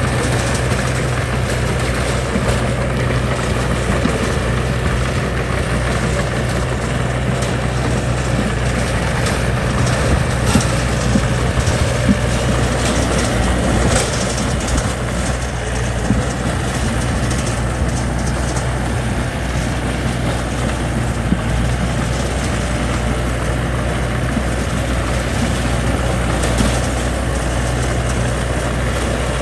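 Diesel engine of heavy earthmoving machinery running steadily, with a few short knocks around the middle.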